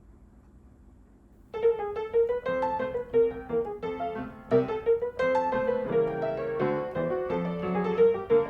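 Background piano music that starts about a second and a half in, after a quiet opening, playing a light melody over a steady lower accompaniment.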